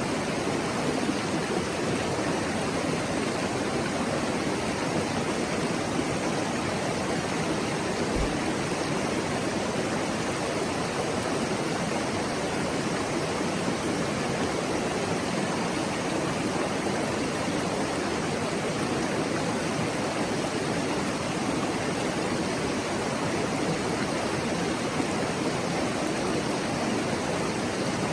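Mountain stream babbling and rushing over rocks, a steady, even flow of water.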